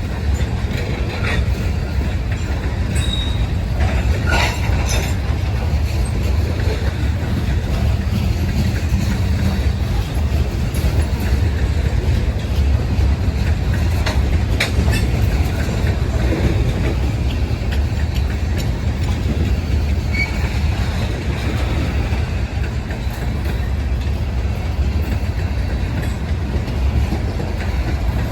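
Freight train rolling by at very slow speed: a steady low rumble of wheels on rail, with scattered clanks and clicks and a couple of brief faint wheel squeals.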